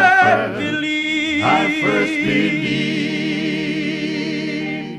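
Gospel song sung by a man: the voice finishes the line and then holds a long final note with a wavering vibrato over a sustained backing chord.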